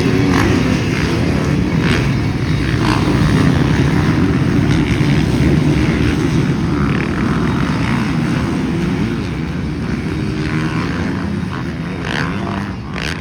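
A field of motocross bikes racing together, their engines running hard and revving up and down; the sound eases off a little near the end.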